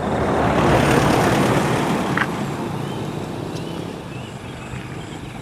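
A vehicle passing close by, its rushing noise loudest about a second in and then slowly fading away, with a single sharp click a little after two seconds.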